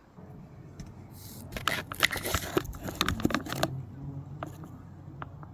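A burst of scraping and clicking, about two seconds long, starting about a second and a half in, followed by a few faint single ticks.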